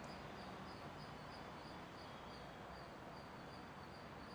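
Faint outdoor background noise with a soft high-pitched chirp repeating about three times a second.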